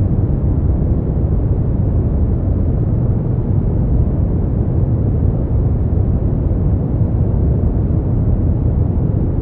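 Continuous sleep-aid noise track: a steady, deep rushing hiss with little treble, unchanging throughout.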